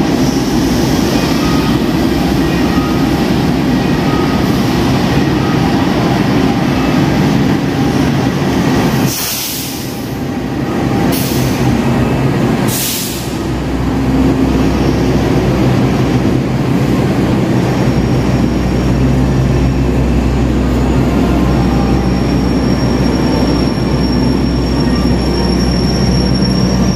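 Passenger train behind a diesel locomotive rolling into a station platform, its engine and wheels making a steady rumble. About nine to thirteen seconds in there are three brief hisses, and a thin high wheel squeal runs through the last few seconds.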